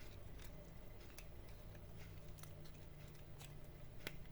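Quiet room tone: a faint steady low hum with scattered soft clicks and ticks.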